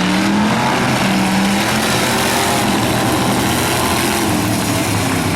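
Several demolition race car engines running hard around the track together, their pitches rising and falling as they rev, over a dense rush of noise.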